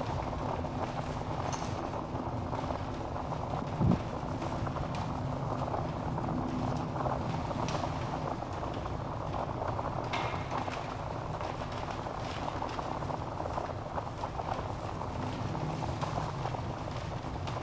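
Wood fire burning in a fireplace: a steady rush of flame with irregular crackles and pops from the logs, and one louder low thump about four seconds in.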